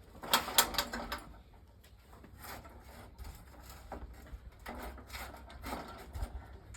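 A quick run of clattering knocks about half a second in, then scattered single knocks.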